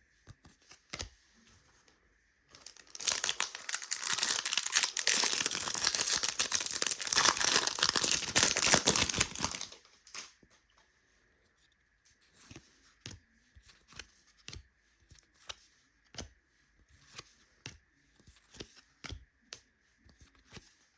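A trading card pack's wrapper being torn open and crinkled for about seven seconds, starting a few seconds in. This is followed by scattered light clicks and taps as the cards are handled.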